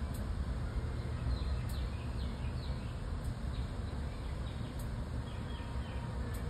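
Outdoor ambience: a steady low rumble under small birds chirping, with runs of quick falling chirps starting about a second and a half in and returning a few times.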